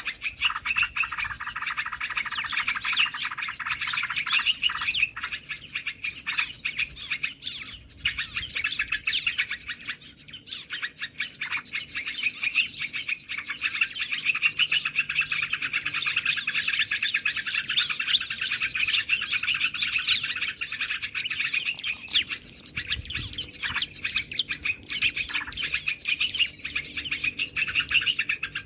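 Small birds chirping and twittering densely and without a break, a fast overlapping stream of high chirps.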